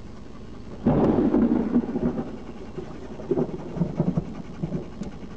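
Thunder from nearby lightning: a sudden loud crack about a second in, then a long rumble that slowly fades.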